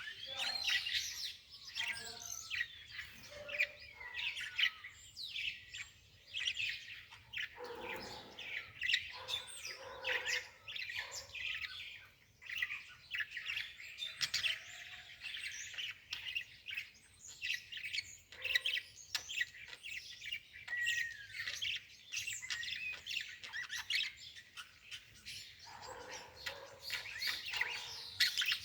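Many birds chirping at once, with quick, short calls overlapping continuously.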